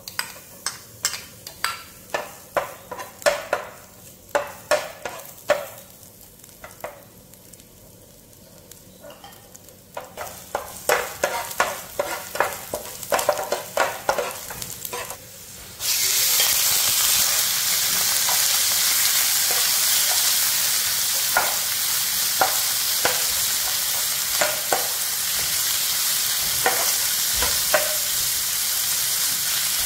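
A slotted metal spatula clinks and scrapes against a nonstick frying pan as chopped garlic is stirred in oil, with only a faint sizzle under it. About halfway through, a loud steady sizzle starts suddenly as pieces of pork go into the hot oil, and the spatula clinks on over it now and then.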